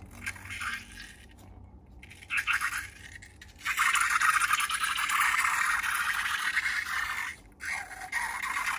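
Slime being worked by hand, giving crackly, scratchy squishing: short bursts at first, then a steady run of crackling from about a third of the way in, broken briefly near the end.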